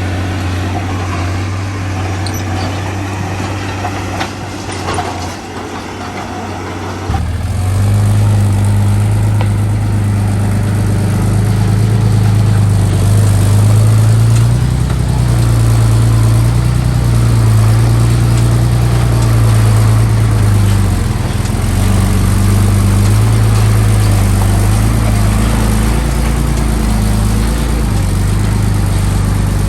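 Heavy diesel engine of construction machinery running steadily; about seven seconds in it changes abruptly to a louder, deeper drone.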